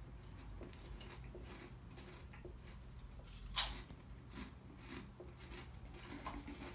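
Quiet chewing of a Pringles potato chip: faint crunches and mouth clicks, with one short, sharper crackle about three and a half seconds in.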